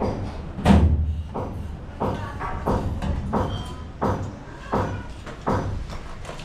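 Repeated knocks and thumps of building work, about one every two-thirds of a second. The loudest comes near the start and carries a deep thud.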